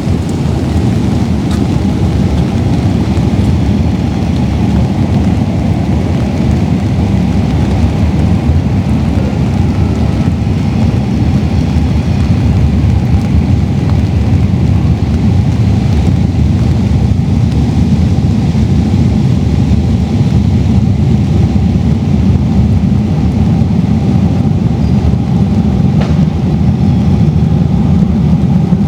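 Steady rain with a constant, dense low rumble underneath and a few faint ticks.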